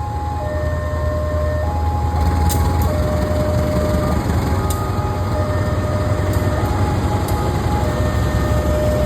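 Freight train running past with a deep steady rumble and a few sharp clicks, over a sequence of electronic tones that step from pitch to pitch about once a second.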